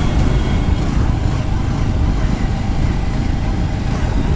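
Bajaj Avenger Street 160's single-cylinder engine running on the move while misfiring and jerking, the sign of the fuel running out.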